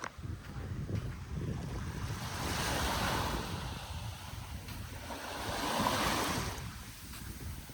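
Small sea waves washing onto a beach, swelling and falling back twice, with wind rumbling on the microphone.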